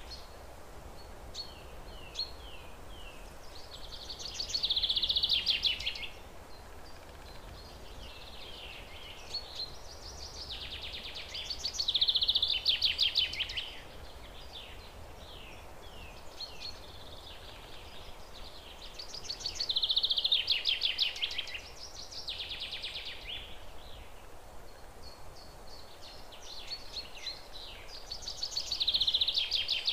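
Birdsong: a loud, rapidly pulsing trilled phrase about two seconds long, repeated four times, with short falling chirps between the phrases, over a faint steady hiss.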